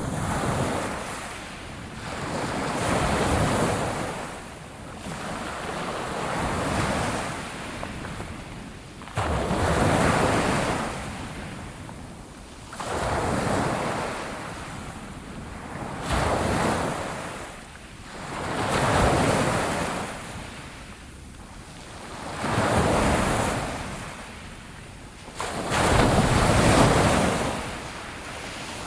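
Sea waves breaking on a shore, one after another about every three to four seconds, each wash swelling up and fading away.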